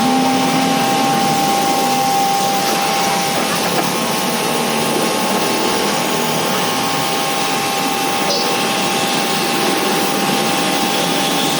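Pressure washer running steadily while spraying water: a constant motor whine with two steady tones over an even hiss of water spray.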